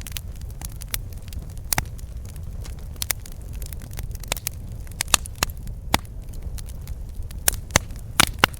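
Wood campfire crackling, with irregular sharp pops and snaps over a steady low rumble; a quick run of louder pops comes near the end.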